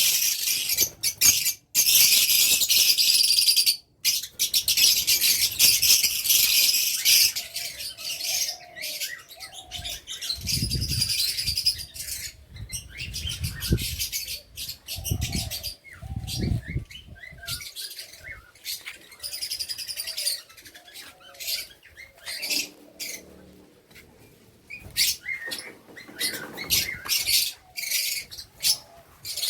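Many caged birds chirping and twittering at once, a dense chatter that is loudest in the first several seconds and becomes sparser later, with a few low bumps around the middle.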